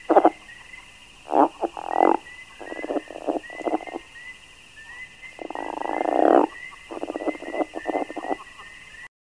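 Frogs croaking: several rattling calls in bursts of a fraction of a second to about a second, one after another, the longest about halfway through, over a steady high-pitched background hum with short rising chirps.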